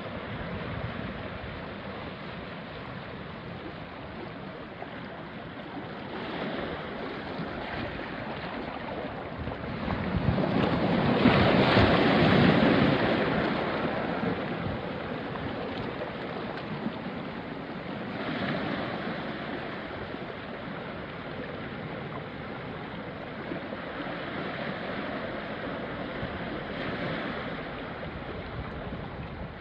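Small sea waves washing onto a rocky shore, with a steady wash between them and one larger wave breaking about a third of the way in, smaller surges after it.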